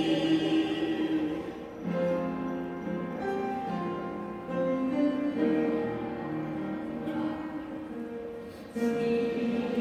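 Choir singing slow, sustained notes in phrases, with brief breaks between phrases about two seconds in and again near the end.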